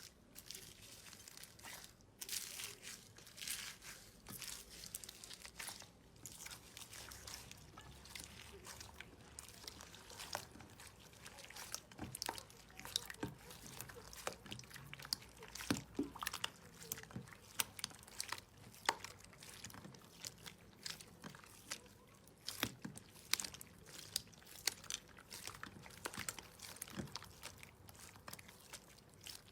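Slime being squeezed and pressed by hand, making a steady run of small crackles, clicks and pops that grow denser about a third of the way through.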